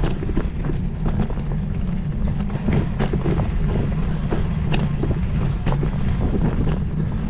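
Wind buffeting the microphone as a steady low rumble, with frequent sharp clicks and rattles throughout.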